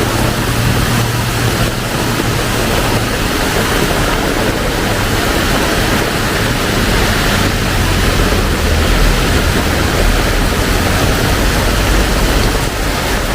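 Heavy rain pouring steadily as a loud, even hiss, with a low rumble underneath.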